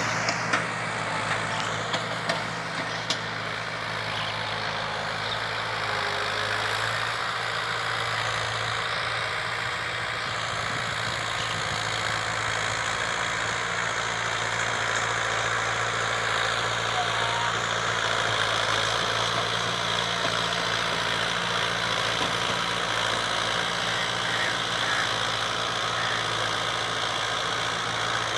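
Fiat 640 tractor's diesel engine running steadily, with a few sharp clicks in the first few seconds.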